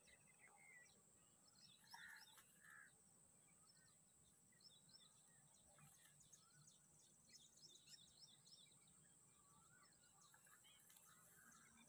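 Faint chorus of small birds chirping, many short calls throughout, over a steady thin high tone.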